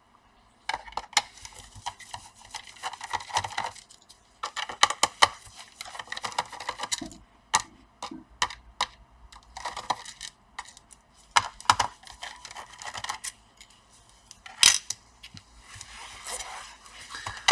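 Small screws being backed out of a laptop's plastic bottom case with a screwdriver: irregular clicks and scratchy turning, with small metal screws clinking as they are handled and set down.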